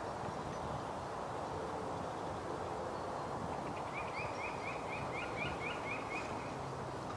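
Steady outdoor background hiss; about four seconds in, a small bird sings a quick trill of about ten rising chirps in a row, lasting a little over two seconds.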